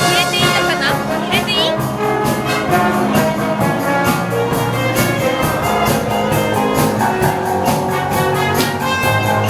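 Live wind band playing dance music: brass, including trumpets and trombones, over a steady drum beat.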